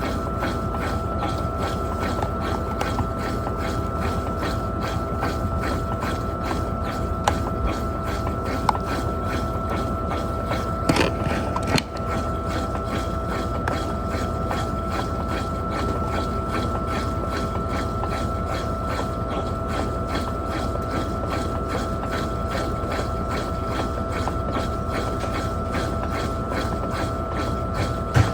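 Electrolux LTP15 top-loading washing machine running, a steady whine under a rhythmic clatter of about two to three clicks a second, with a louder knock about eleven seconds in.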